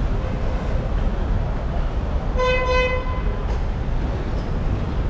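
Steady low rumble of a railway station, with one short horn toot about two and a half seconds in.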